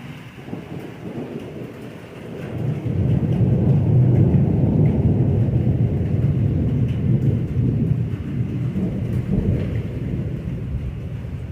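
Thunder rumbling, building about two seconds in, loudest a few seconds later, then slowly rolling away, with rain falling throughout.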